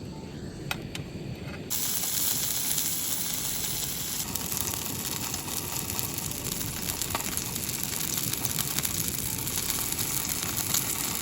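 Quarter-pound burger frying in a pan on a Jetboil gas stove: a steady sizzle and hiss that starts suddenly about two seconds in.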